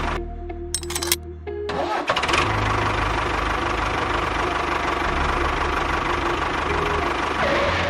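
A small motor of a DIY model bulldozer running, cutting out briefly with a couple of clicks, then starting up again about two seconds in and running steadily.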